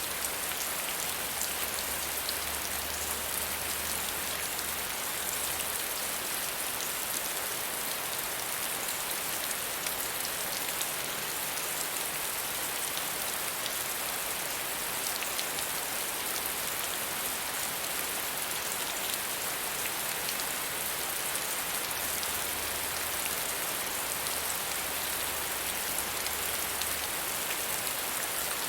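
Steady soft rain falling, an even hiss of drops with fine patters of individual drops on a surface.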